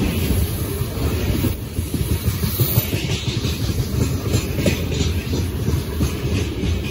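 Freight train's covered hopper wagons rolling past close by: a steady low rumble of steel wheels on rail with repeated clatter as the wheels cross rail joints.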